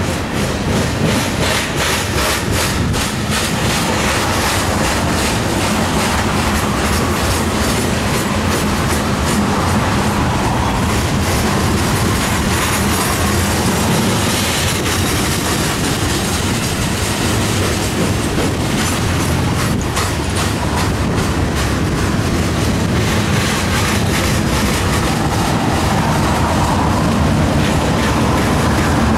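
Union Pacific coal train's loaded coal cars rolling past at a steady speed, their wheels clicking rhythmically over the rail joints.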